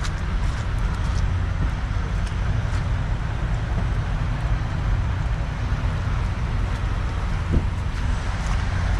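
Steady low rumble of road vehicles running, with a single brief knock about seven and a half seconds in.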